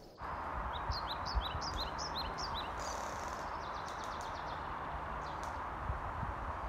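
Songbird singing a quick run of short chirping notes for about two seconds, over a steady rush of wind through the pine canopy, with a few low wind thumps on the microphone.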